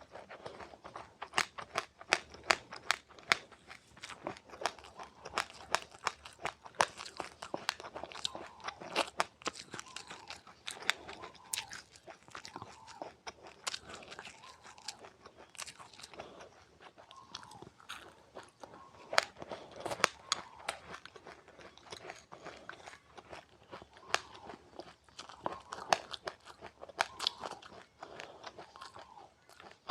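Close-up chewing of crunchy seeds with passionfruit: a steady run of sharp little crunches, several a second, over soft wet mouth sounds.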